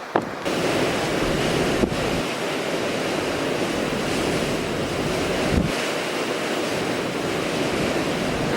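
Strong blizzard wind blowing over the microphone: a steady rushing noise with heavy low buffeting that sets in suddenly about half a second in.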